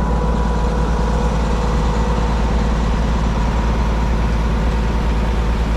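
Diesel engine of a 32 m Putzmeister truck-mounted concrete boom pump running steadily, with a strong low hum and a faint steady whine over it.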